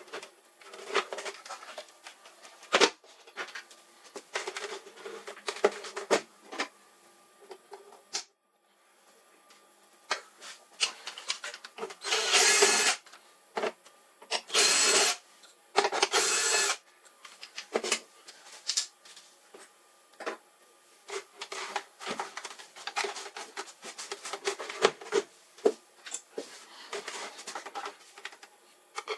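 Hand work on a device with tools: irregular clicks, taps and scrapes of tools and hard plastic parts being handled, with three louder rasping scrapes in the middle.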